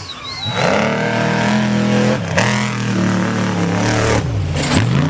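Off-road race truck engine accelerating hard past, its note dropping briefly about two seconds in, then falling away near the end.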